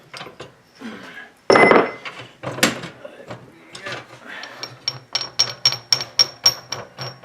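Metal parts being worked with hand tools: scattered knocks and a short clatter, then a quick regular run of light ringing taps on metal, about four a second, near the end.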